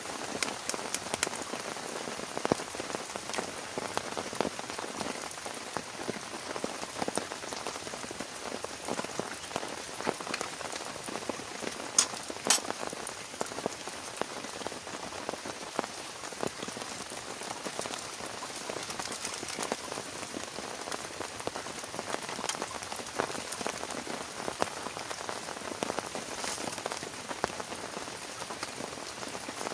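Heavy rain falling steadily, with many separate drops tapping sharply on a surface close by; one louder sharp tap about twelve seconds in.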